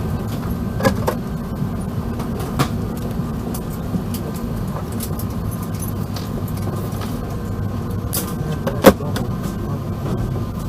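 Cabin noise inside an Airbus A380 airliner: a steady low rumble with scattered light clicks and knocks, and one sharp knock about nine seconds in.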